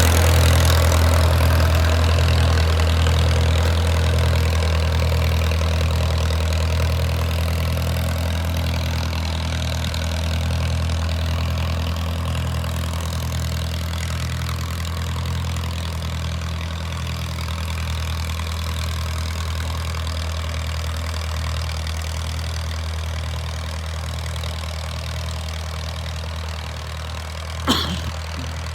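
Allis-Chalmers WD tractor's four-cylinder engine running steadily with an even low pulse. A single short sharp click near the end.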